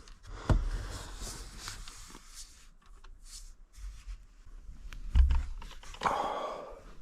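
Scattered knocks and thumps with rustling as a person shifts about in a cramped attic; a heavier thump comes about five seconds in. There is no drill running.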